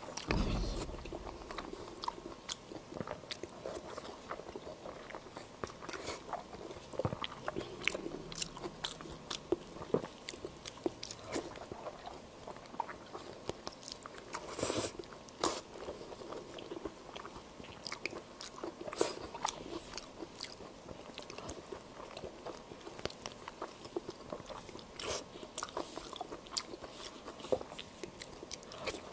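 A person biting and chewing meat close to the microphone: a steady run of short mouth clicks, with two louder bites about halfway through.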